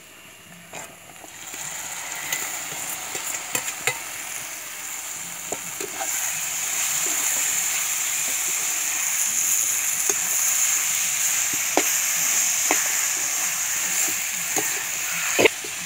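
Chopped raw chicken sizzling as it fries in a pan of hot oil with fried onion and chili paste. The sizzle swells a second or two in as the chicken goes in and grows louder midway, with scattered clicks and scrapes of a spoon stirring against the pan.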